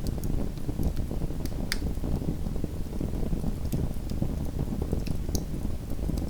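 Small wood fire in a fireplace crackling: scattered sharp pops and ticks over a steady low rumble, with one louder pop a little under two seconds in.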